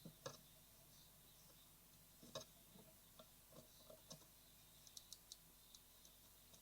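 Faint, scattered scratching and ticking of young great tits moving about inside a wooden nest box, claws scraping and tapping on the wood, with a quick run of sharp ticks about five seconds in.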